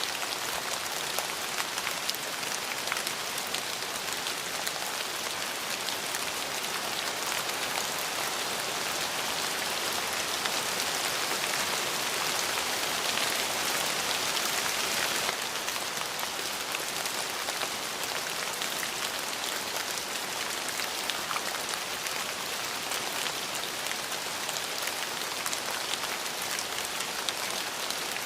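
Steady rain falling on a surface, an even hiss dotted with the taps of single drops. It grows a little heavier for several seconds near the middle, then eases back.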